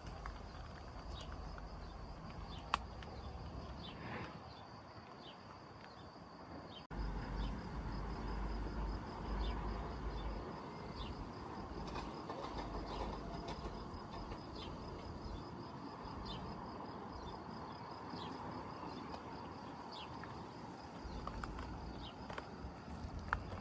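Countryside ambience of scattered short bird chirps over a steady high insect trill, with a low rumble underneath. The ambience changes abruptly about seven seconds in and is a little louder afterwards.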